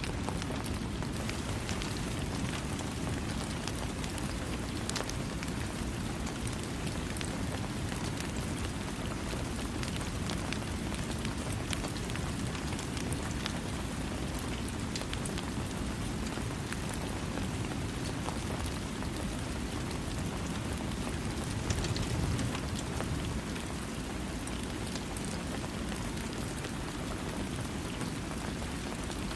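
Steady rain falling on a surface, with no thunder: a continuous patter with scattered individual drop ticks, swelling briefly a little past two-thirds of the way through.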